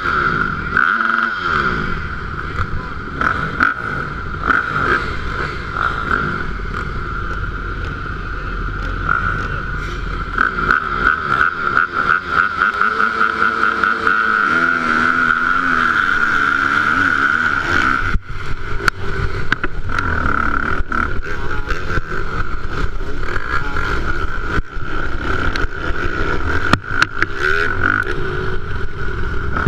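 Motocross bike engines running hard on the track, revving up and down through the gears, with frequent knocks and rattles.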